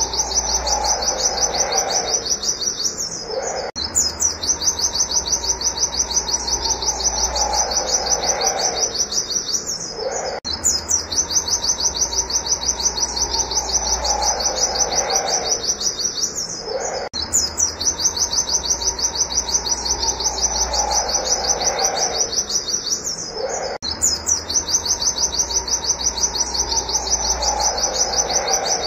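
White-eye (pleci) singing a rapid, even run of high 'wit wit' notes, with brief breaks about every six to seven seconds. A lower falling note runs beneath each stretch.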